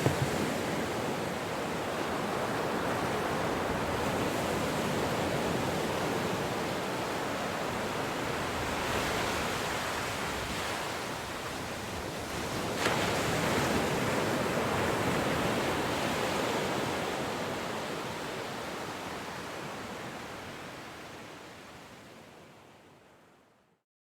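Ocean surf rushing steadily, with a wave breaking and surging louder about 13 seconds in. It then fades out to silence over the last several seconds.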